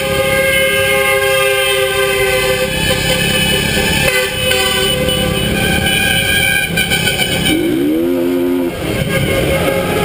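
Many vehicle horns honking together in a steady, overlapping blare, with a short rising tone about eight seconds in.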